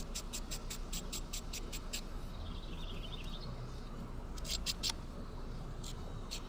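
Hand ratchet clicking in quick, even runs of about six clicks a second, in a long run and then shorter bursts, as the oil filter cover bolts are tightened down.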